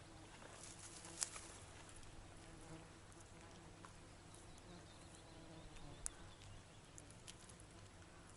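Near silence: faint outdoor ambience with a few sharp soft clicks, the loudest about a second in and another near six seconds in.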